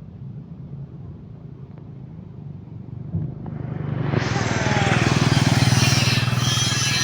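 A vehicle engine running low and steady, then revving up loud from about three and a half seconds in and holding at high revs.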